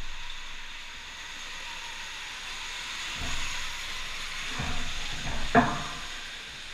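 Electric dirt bikes riding on an indoor track: a steady high hiss and whine, with a few dull thumps, the loudest about five and a half seconds in.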